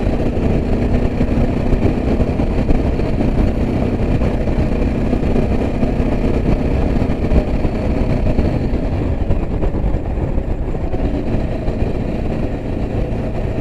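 Yezdi Adventure motorcycle's single-cylinder engine running steadily while riding, mixed with wind rush on the microphone.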